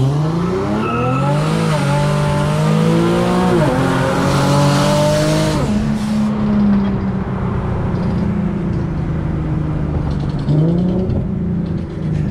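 Car engine accelerating at full throttle, its pitch climbing and dropping sharply at three quick upshifts about two, four and six seconds in. After that the engine holds a steadier, lower note, with short rises in revs near the end.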